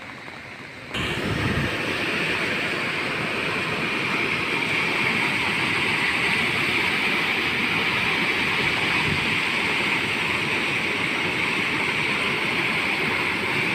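A river in flood, its water rushing in a loud, steady wash of noise that starts suddenly about a second in.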